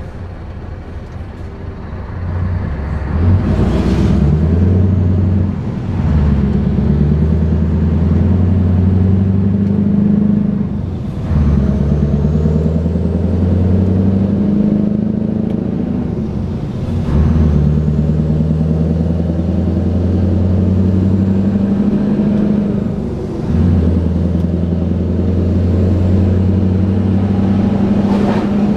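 Scania R620's V8 diesel with a straight-piped exhaust pulling away and accelerating up through the gears. The engine note climbs slowly under load in each gear, then dips and drops in pitch at each of about five upshifts, roughly every five to six seconds.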